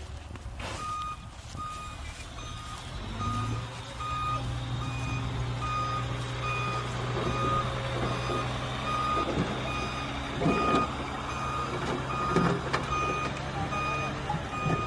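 A heavy diesel vehicle's reversing alarm beeping steadily, a little under twice a second, over the engine. The engine note rises about three and a half seconds in as the machine works harder, and a few knocks come near the end.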